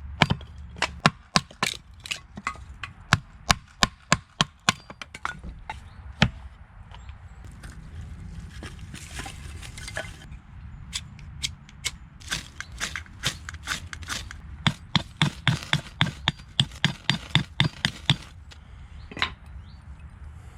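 Wood being chopped for a campfire: runs of sharp chopping knocks, about two to three a second, a bout at the start and another after a pause of several seconds.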